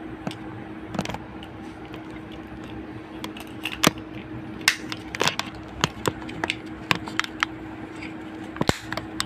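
Irregular small clicks and taps of a keypad mobile phone and small tools being handled during reassembly on a repair bench, over a steady low hum.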